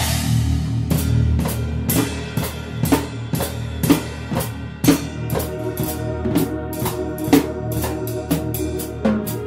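Music led by a drum kit: a cymbal crash right at the start, then busy snare and bass drum hits over a steady bass line, with held notes from another instrument coming in about halfway.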